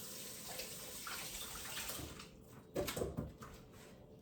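Kitchen sink tap running as hands are rinsed under it, shut off about halfway through, followed by a short louder sound about three seconds in.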